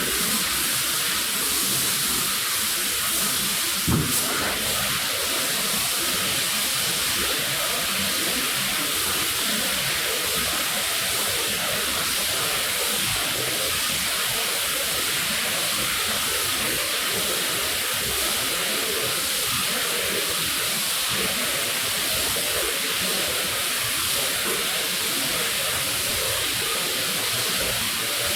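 Water spraying steadily onto a wet rug in a constant hiss, with one sharp knock about four seconds in.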